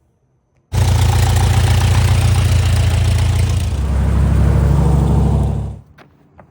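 The Thorp's rebuilt Lycoming O-290 four-cylinder aircraft engine running loud. It cuts in suddenly, its deep note drops lower about three seconds later, and it fades out near the end.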